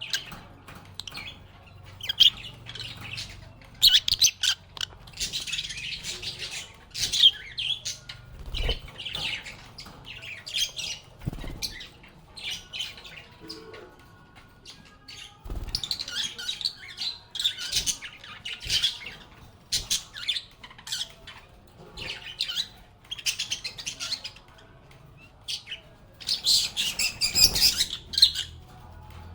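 A group of lovebirds chattering with rapid, irregular high chirps and shrill squawks, in short bursts with brief gaps; the loudest flurry comes a couple of seconds before the end.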